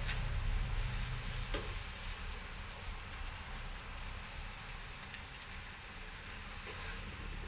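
Food sizzling in hot oil in a frying pan, a steady hiss, with a few faint clicks.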